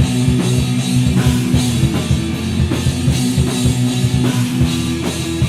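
Rock band playing an instrumental passage between sung lines: a drum kit beating a steady rhythm under held electric guitar and bass notes.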